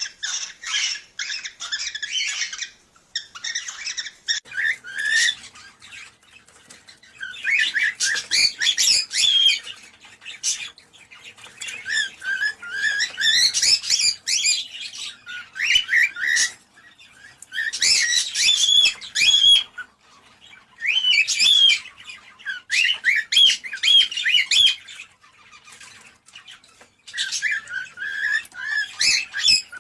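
Cockatiels chirping and warbling in bouts of a few seconds, with short pauses between them. This is cockatiel breeding-stimulation calling.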